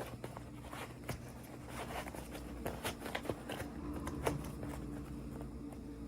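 Toy packaging being handled during an unboxing: irregular light clicks and rustles from plastic and cardboard, over a faint steady hum.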